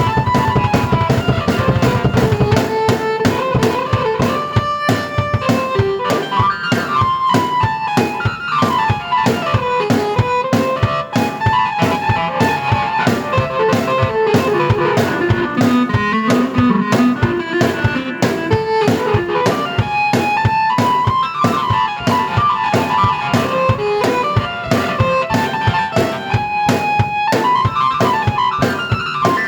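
Drum kit and keyboard played together: a steady, busy drum beat under a moving keyboard melody, with the deepest bass dropping out about two and a half seconds in.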